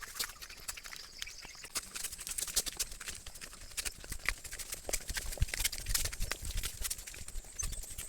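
Irregular crackling clicks and rustling, loosely spaced and uneven.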